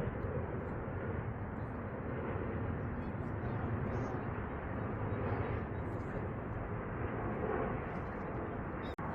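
Steady rumbling noise of jet aircraft engines at an airport, even in level throughout, cutting out for an instant near the end.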